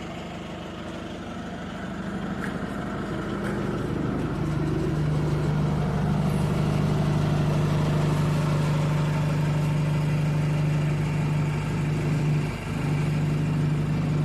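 An engine running steadily, growing louder over the first few seconds and then holding, with a brief dip near the end.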